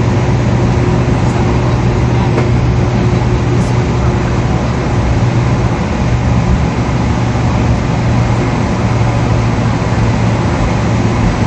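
Steady cabin noise inside a Boeing 777 on the ground after landing: an even rumble of engines and rolling with a strong low hum.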